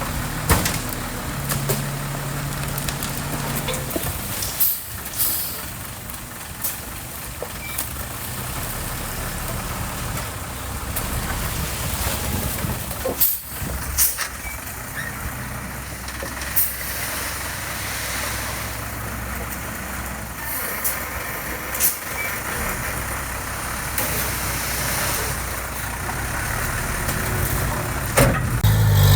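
Heavy diesel construction machinery running steadily, with sharp clanks and hissing bursts every few seconds.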